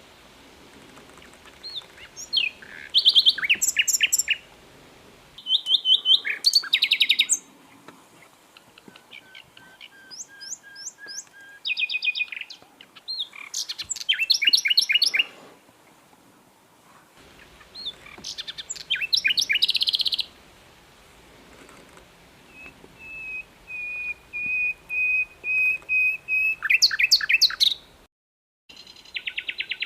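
Grey-headed canary-flycatcher (sikatan londo) singing: bursts of rapid, high chattering trills every few seconds, and after about twenty seconds a run of level whistled notes that grow louder.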